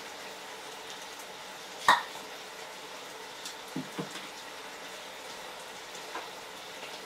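Chicken sizzling steadily in a steel wok. About two seconds in there is one sharp clack, and later a few lighter knocks, from kitchen items handled on the counter.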